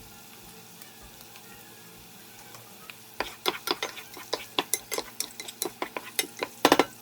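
Onions frying with a faint sizzle in a skillet; about three seconds in, a utensil starts stirring them, clicking and scraping against the pan several times a second, with a louder clatter near the end.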